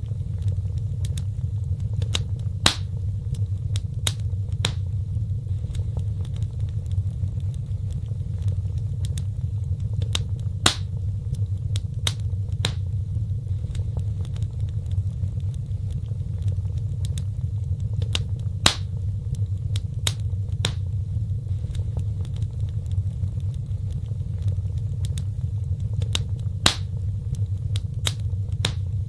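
Wood fire in a fireplace burning with a steady low rumble and scattered sharp crackles and pops; the loudest pops recur about every eight seconds, as in a looped recording.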